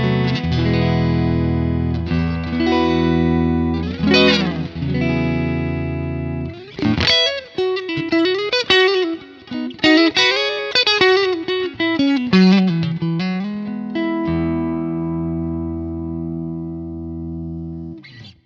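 FGN Expert Odyssey EOS-FM-R electric guitar played through an amplifier: held chords, then a fast single-note lead line with bends and vibrato, ending on a chord left to ring that cuts off suddenly near the end.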